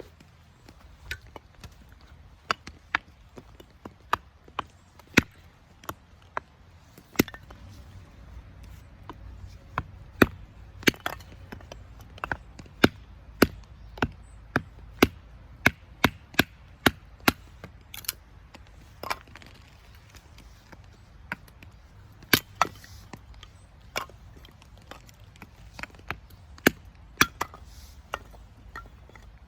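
A blade chopping into wood: a long run of sharp, irregular knocks, about one or two a second, with short pauses between runs.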